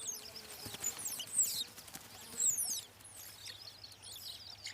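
Birds chirping: short, high, falling chirps come every second or so, some in quick pairs.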